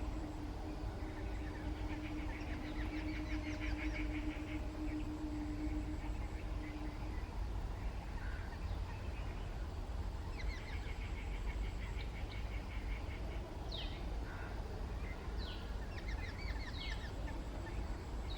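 Birds calling: bursts of rapid, trilled chatter and a few quick downward-sweeping chirps, over a steady low rumble.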